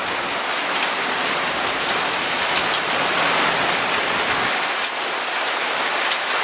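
Torrential rain mixed with hail: a steady dense hiss of downpour, with sharp ticks of individual hailstones striking hard surfaces scattered through it.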